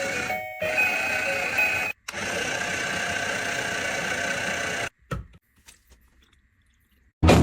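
A short electronic tune of stepping beeps, then a steady whirring hum that cuts off suddenly about five seconds in, followed by a brief thud.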